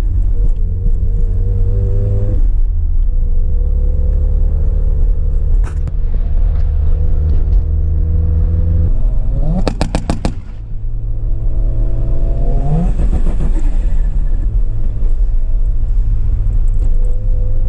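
Mazda RX-7's 13B rotary engine running steadily under way. Its revs sweep up sharply about ten seconds in, drop briefly, and climb again a couple of seconds later.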